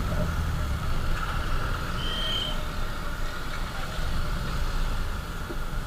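Motorcycle riding on the road: the engine runs under a steady wind rumble on the microphone, with a short high beep about two seconds in.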